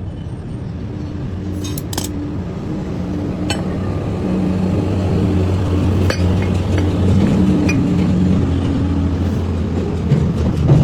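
A steady machine hum with light metallic clinks of parts being handled, the clearest about two, three and a half and six seconds in.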